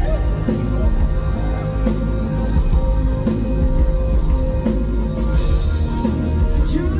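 Rock band playing live, loud, with electric guitar and a drum kit carrying a mostly instrumental passage.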